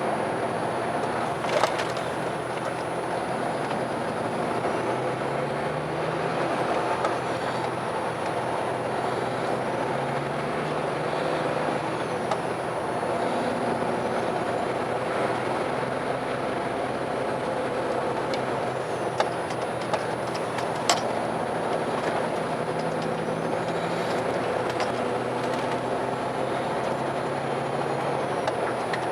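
Car driving, heard from inside: steady road and engine noise, the engine pitch rising and falling several times as it speeds up and changes gear, with a few sharp knocks.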